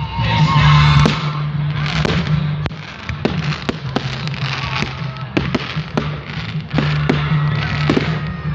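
Fireworks going off in a rapid run of sharp bangs, about three a second, over a continuous crackle.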